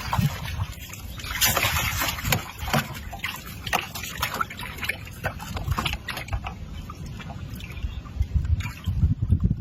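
Water splashing and sloshing at the side of a boat in short, irregular splashes.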